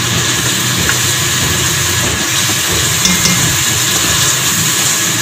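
Boiled chickpeas sizzling as they are fried in oily onion-tomato masala in a pot and stirred with a spatula: a steady hiss.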